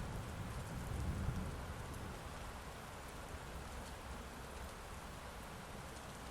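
Heavy rain falling steadily, with a low thunder rumble that fades out over the first second or two.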